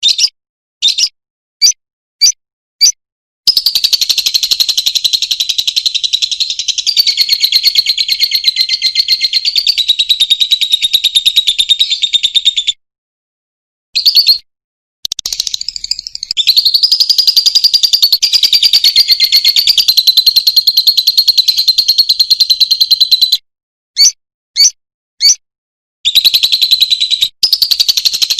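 Lovebird giving the long, very fast chattering trill that keepers call ngekek. There are three long runs several seconds each, with short single chirps between them.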